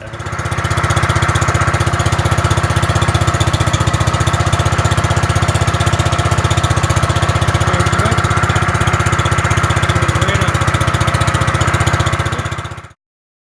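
Gravely 5665 walk-behind tractor's engine running steadily with a fast, even pulse. It cuts off suddenly near the end.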